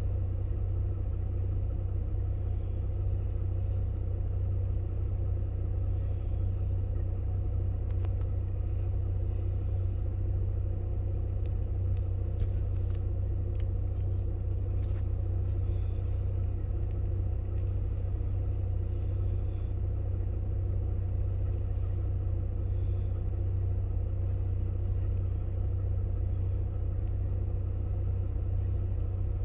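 Steady low rumble that stays even throughout, with a few faint clicks in the middle.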